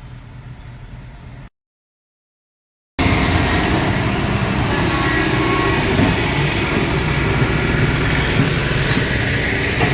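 A faint low rumble, then a short silence, then about three seconds in a loud, steady run of heavy diesel engine and vehicle noise from machinery and traffic at a road construction site.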